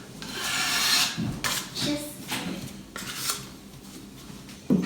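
Hand-tool scraping and rasping on the drywall fireplace build: one long scrape, then several shorter strokes, with a sharp knock near the end.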